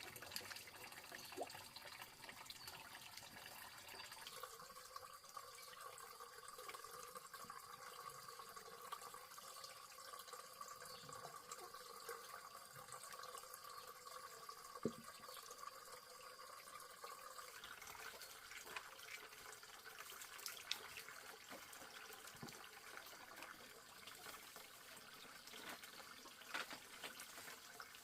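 Faint trickling water, with a few light clicks and knocks.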